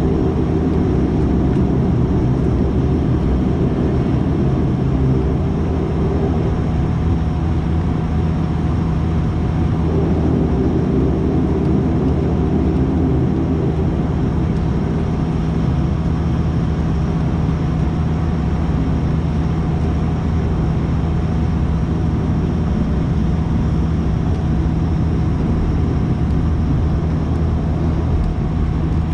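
Cabin sound of a De Havilland Canada Dash 8-400 with its Pratt & Whitney PW150A turboprop engines and propellers running: a steady low drone with several held tones and a rushing noise.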